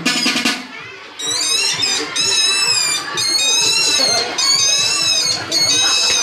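Mouth whistling: a high, wavering whistled melody that starts about a second in, after a few drum strikes at the start.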